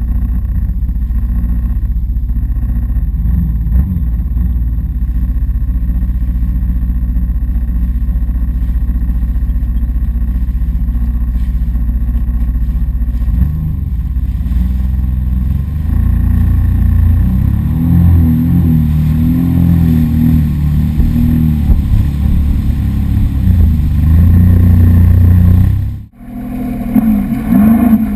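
Sea-Doo jet ski engine running under way with a heavy low rumble. From about halfway its pitch rises and wavers as the throttle changes. Near the end the sound cuts out abruptly for a moment, then picks up again.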